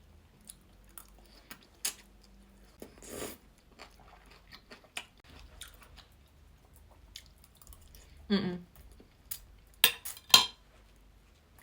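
Close-up chewing and biting of roast chicken, with soft wet mouth clicks and crunches. Two sharper clicks come about ten seconds in.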